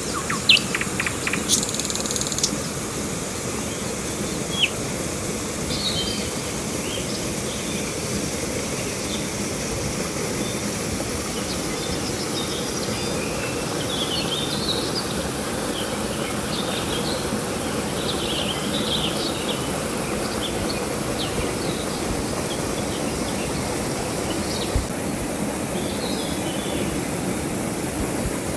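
Steady rush of a flowing river, with birds chirping on and off over it and a constant high insect buzz.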